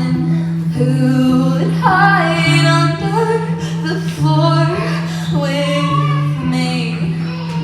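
A woman singing an original song live, with bass accompaniment holding sustained low notes under the melody.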